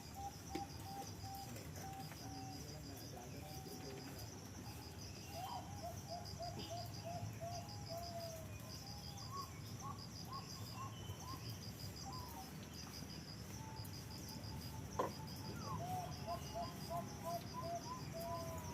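Birds calling in runs of short repeated notes, over steady fast-pulsing insect chirping; one sharp click about 15 seconds in.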